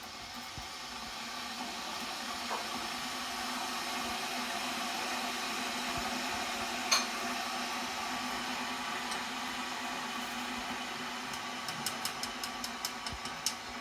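A steady hiss with a low hum, swelling over the first few seconds and then holding level, with one sharp click midway and a run of light clicks near the end.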